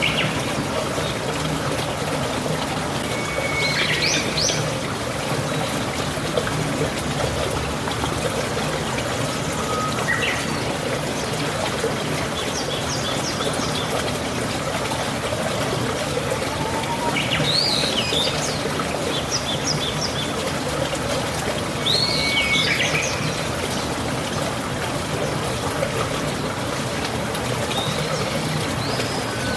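Steady rain with water trickling and pouring, and birds chirping in short calls several times over it.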